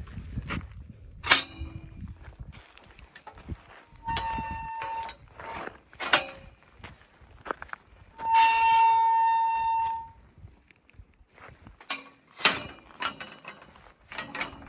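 Hiker's footsteps and pole or boot knocks on a rocky trail, broken by two steady horn-like tones, a short one about four seconds in and a longer, louder one of nearly two seconds past the middle.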